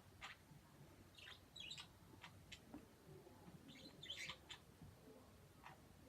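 Pet birds making faint kiss-like smacking clicks mixed with short, soft chirps, several times over.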